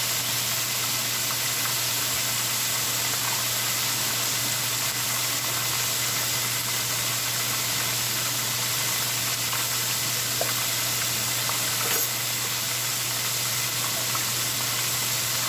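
Steady sizzling hiss of chicken breast frying in hot oil, with a constant low hum and a few faint clicks near the end.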